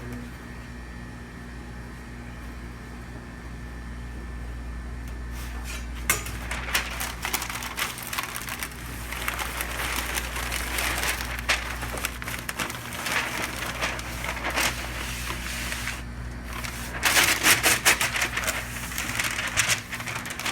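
Brisket being wrapped by hand, the wrap crinkling and crackling in irregular bursts that start about six seconds in and are loudest near the end, over a steady low hum.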